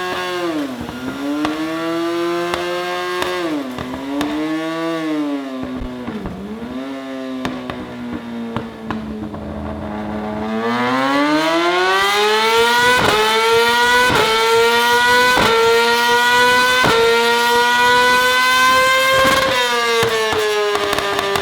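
Yamaha R6 inline-four through a Yoshimura ALPHA-T full titanium exhaust, running on a dyno. For the first ten seconds it revs up and down in a few short sweeps. Then, about ten seconds in, a long, louder pull begins, with the pitch climbing steadily until the revs drop back near the end.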